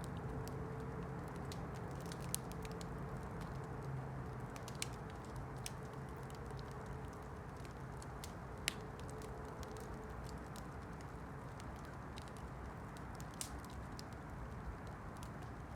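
Campfire crackling: a steady low rush of burning wood with scattered sharp pops and ticks, the loudest pop a little past the middle.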